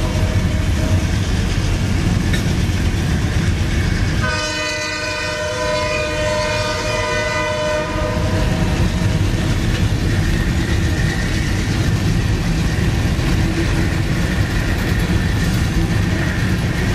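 Loaded crude oil tank cars rolling past with a steady rumble and clatter of wheels on rail. A multi-tone train horn fades out just after the start and sounds again for about four seconds beginning about four seconds in.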